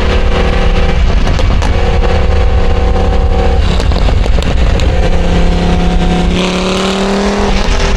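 A car engine running under way with a heavy low rumble, holding steady notes that step in pitch. Near the end the pitch rises as it accelerates.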